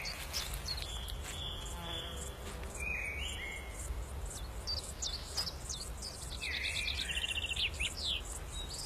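Several songbirds calling in a meadow: short chirps and whistles, with a fast trill of repeated notes about seven seconds in, over a low steady rumble.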